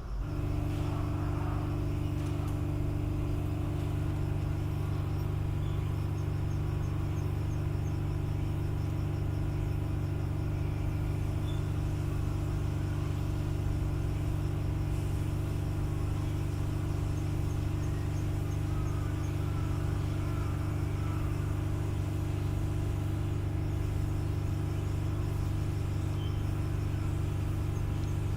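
Steady low mechanical hum with a few faint high chirps over it.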